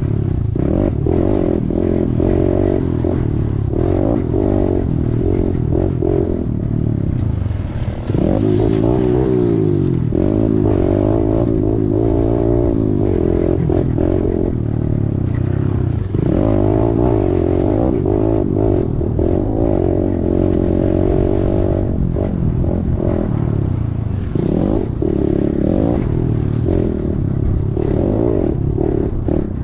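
Kawasaki KLX110's small air-cooled four-stroke single-cylinder engine being ridden hard, its pitch rising and falling again and again as it revs up and backs off, with brief drops in revs. Knocks and rattles from the bike run through it.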